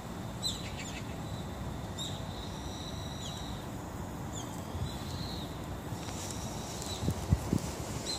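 Small birds chirping intermittently with short, high calls over steady background noise. A few low thumps about seven seconds in.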